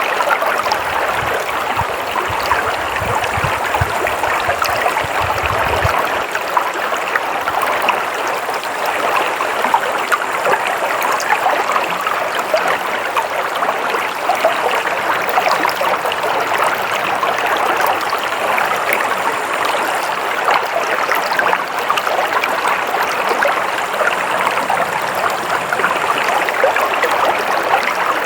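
Water flowing steadily in a stream, an even rushing with fine splashes throughout. A low rumble sits under it for the first six seconds or so, then stops.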